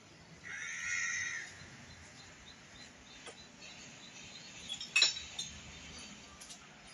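A bird calls once, lasting about a second, near the start. Faint clinks follow, with a sharp clink about five seconds in.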